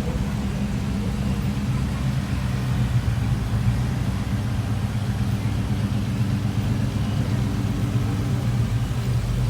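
A car engine running steadily, a low even drone with no change in speed.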